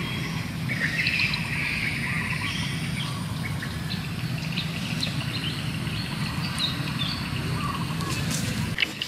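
Birds chirping on and off over a steady low rumble.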